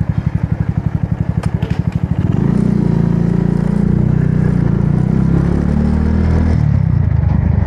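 Motorbike engine idling with an even low putter, then revving up and pulling away about two seconds in, running steadily under load after that.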